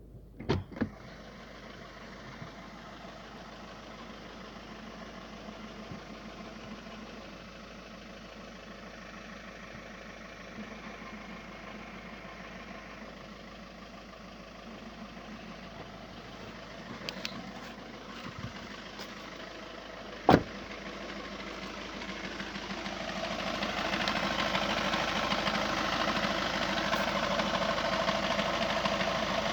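Audi A3 1.9 TDI four-cylinder turbodiesel engine idling, with two sharp clicks near the start and a single sharp knock about two-thirds of the way in, then growing louder. These are the strange noises that appeared after a clutch replacement.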